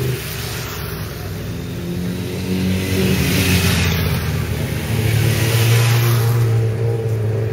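Motorcycle engine running with a low, steady note, its pitch rising and falling as it is revved during the first few seconds, then holding steady and louder in the second half.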